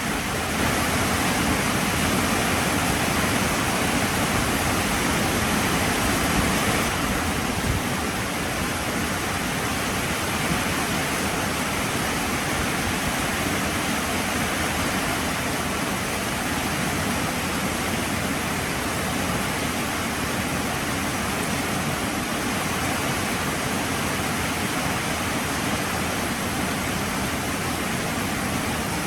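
Heavy rain falling as a steady, even hiss, a little louder for the first several seconds.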